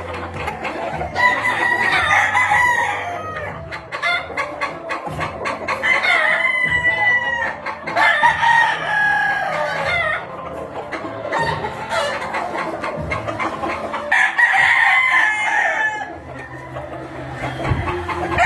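Gamefowl roosters crowing, several long crows one after another and sometimes overlapping, with hens clucking between them.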